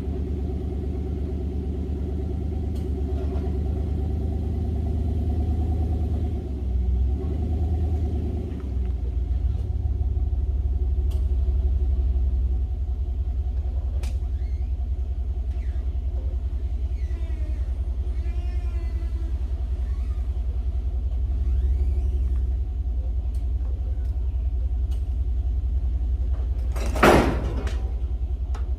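An engine running steadily at low speed, a low rumble with an even firing beat that shifts a little about a quarter of the way in. A single sharp clank near the end.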